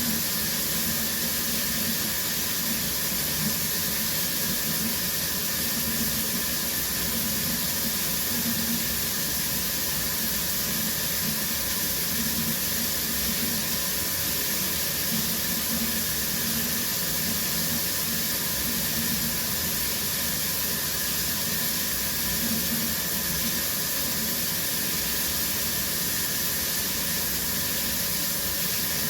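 Shower running steadily: water spraying from the shower head and splashing down in an even hiss.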